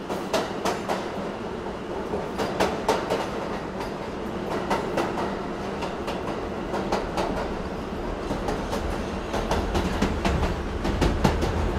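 Mini toy train running on its track: a steady rumble and rattle with sharp clicks as the wheels pass over the rail joints.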